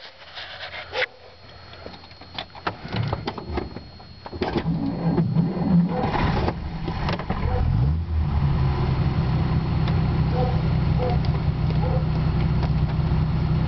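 1939 Dodge D11's 218 cubic inch flathead straight-six being started from the cab: a few clicks and knocks first. About four and a half seconds in it cranks and catches, and from about eight seconds it settles into a steady idle.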